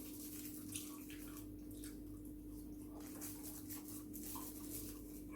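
Faint close-up eating sounds: scattered soft clicks and smacks of chewing, over a steady low hum.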